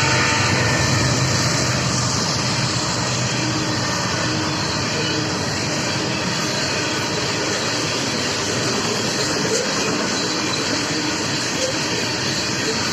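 BNSF intermodal freight train rolling past a grade crossing: a steady, loud noise of wheels on the rails and passing cars.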